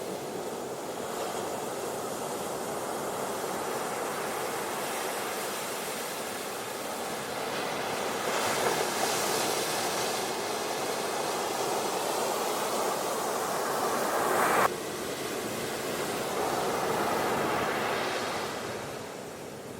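Ocean surf washing onto a beach, a steady rush that swells with each wave, rising to a peak about halfway through and again near the end. About three-quarters of the way in, the rush drops off abruptly, as at an edit, before the next wave builds.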